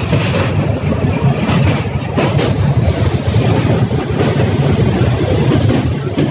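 Passenger train crossing a riveted steel truss rail bridge: a loud, steady, deep rumble of wheels and coaches on the bridge.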